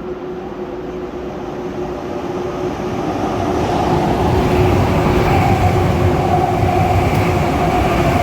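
High-speed electric train running along the platform, growing louder over the first four seconds and then holding steady, a rumble with a steady whine over it.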